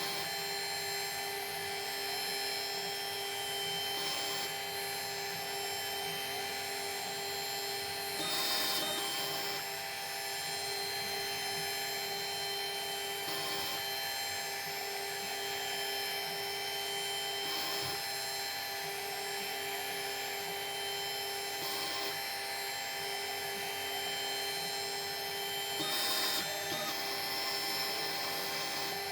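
Small metalworking machine tool running steadily with a fixed whine, its cutter working metal. Brief louder bursts of cutting come about every four to five seconds.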